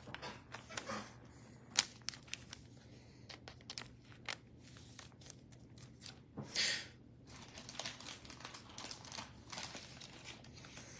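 Faint crinkling and rustling of trading card packaging and plastic sleeves being handled, with scattered light clicks and one longer rustle a little past halfway.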